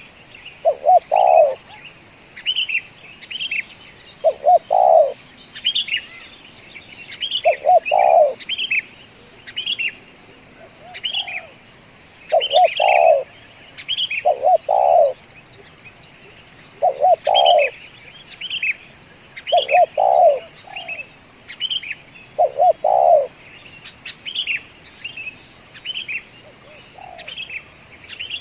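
Spotted doves cooing, each call a short phrase of low notes repeated every two to three seconds. Small birds chirp higher in the background over a steady high-pitched hum.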